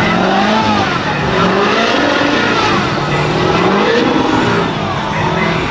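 Mud-bogging vehicle's engine revving hard, its pitch rising and falling in repeated swells about once a second as the driver works the throttle.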